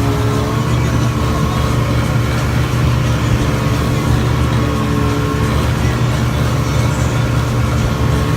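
Boat engine running steadily under way, a constant low hum with a steady pitch.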